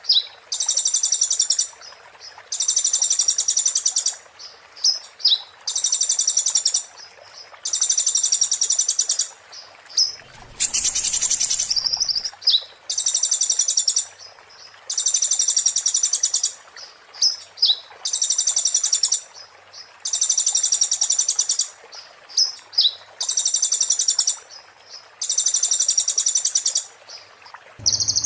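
Konin, a kolibri (sunbird) kept as a songbird, singing its high, fast, sharp trilled phrases of about a second each, repeated roughly every two seconds with short high calls between: the harsh 'muntah beling' style of song. A short rush of noise cuts in about ten seconds in.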